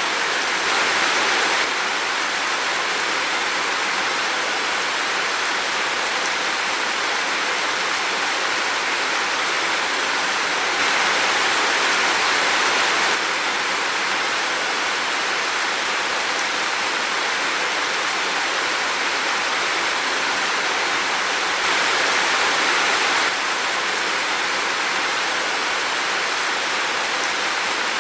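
Heavy rain falling steadily, an even hiss that swells a little louder three times for a second or two.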